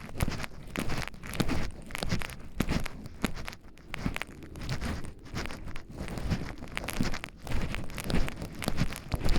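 Footsteps walking along a forest path, about two steps a second.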